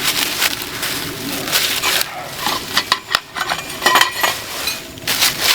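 Metal tent-frame poles clinking, knocking and rattling as they are handled and fitted together, with rustling in between.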